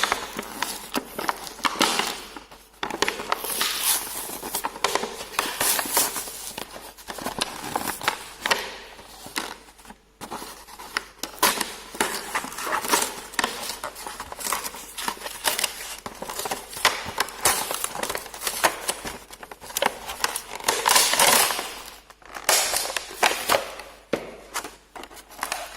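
A toy's cardboard box and plastic packaging being opened by hand: an irregular run of crackling and rustling with sharp clicks and snaps.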